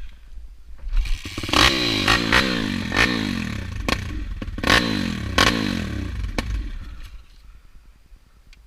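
190cc Daytona four-stroke pit bike engine revving up and dropping back several times as the bike is ridden past, with sharp clacks over it. It grows loud about a second in and fades away near the end.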